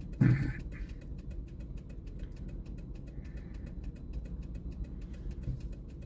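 A vehicle engine idling with a steady low rumble and a fast, even ticking over it; a short voice sound just after the start.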